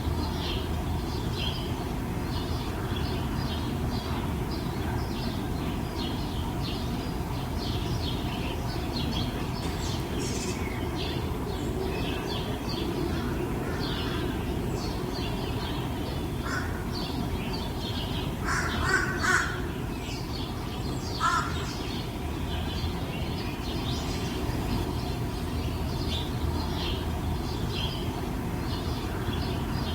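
Small wild birds chirping in short, repeated calls, with two louder, lower bird calls a little past the middle, over a steady low background rumble.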